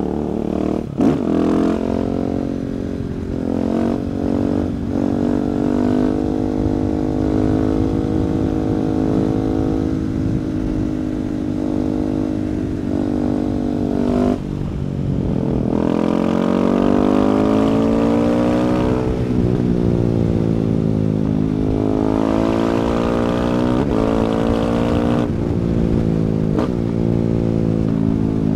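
2017 Husqvarna 701 Supermoto's single-cylinder engine through an Akrapovic exhaust, under way: steady running for the first half, then the revs climb and drop several times in the second half.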